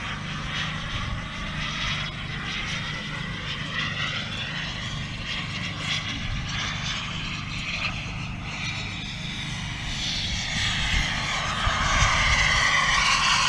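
Miniature jet turbine engine of a remote-control model jet in flight: a whine over rushing noise that slides in pitch as the jet passes, growing louder over the last few seconds as it comes closer.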